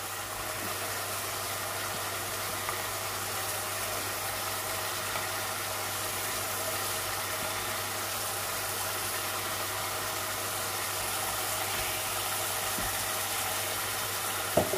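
Chicken frying in oil in a pot over a high gas flame, sizzling steadily as onion paste is spooned in. A steady mechanical hum runs under the sizzle.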